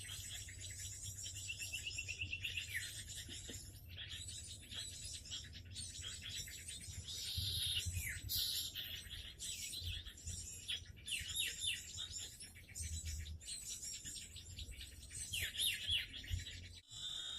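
Small songbirds chirping and calling rapidly, many short high chirps overlapping, over a steady low hum. The sound breaks off abruptly near the end.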